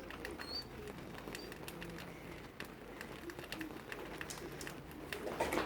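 Faint dove cooing in short low phrases, with a few brief high bird chirps in the first second or so and scattered light ticks of rain dripping.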